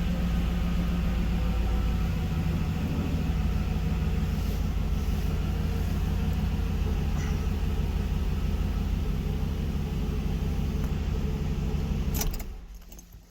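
Mercedes SL500 V8 engine running steadily, its fuel pump now powered by a newly fitted aftermarket relay; the engine stops about twelve seconds in.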